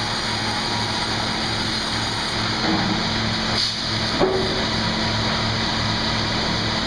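Sawmill log-processing machinery running steadily: a continuous mechanical hiss over an evenly pulsing hum, with a short knock about 4 seconds in.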